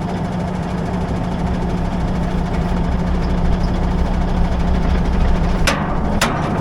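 Heavy farm vehicle engine running steadily with a deep hum. Two sharp knocks come near the end.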